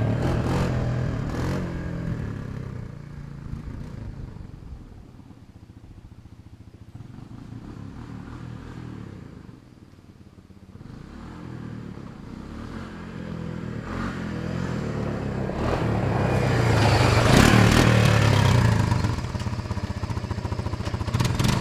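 Honda ATV engine running through a homemade exhaust pipe, riding away and coming back: loud at first, growing fainter to its quietest about halfway, then louder again through the last several seconds.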